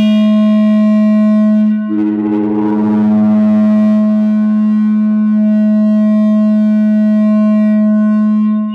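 No-input mixer feedback drone: a loud held low tone with several steady higher tones above it, and a grainier, wavering layer of noise that comes in about two seconds in. The sound drops out briefly near the end as the feedback shifts.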